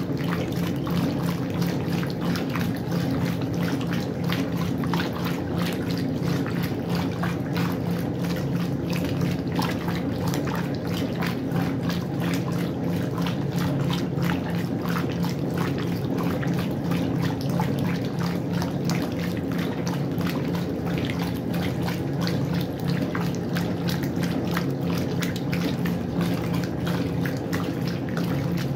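Westinghouse washing machine running: water splashing and churning in the tub over a steady motor hum.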